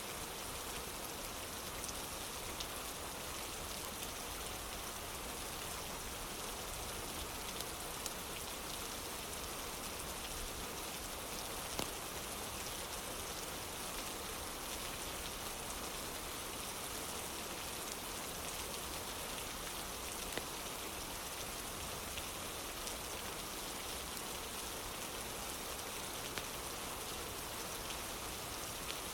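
Steady rain falling on a wooden porch, an even hiss, with a few sharp pops scattered through it.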